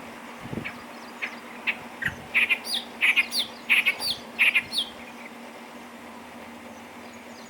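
Clamorous reed warbler song: a run of short, rapid notes, sparse at first, then coming thick and loud for a few seconds before stopping.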